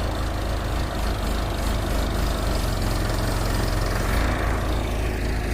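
Backhoe's diesel engine running steadily, its low note shifting slightly about four seconds in.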